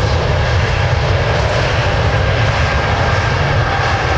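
Jet airliner's engines running steadily as the aircraft passes close by, a dense rush of noise with a faint steady whine over a heavy low rumble.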